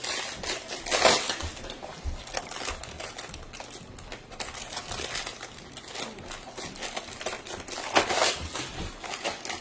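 A plastic toy truck being handled: scattered clicks and knocks with some rustling, loudest about a second in and again near the end.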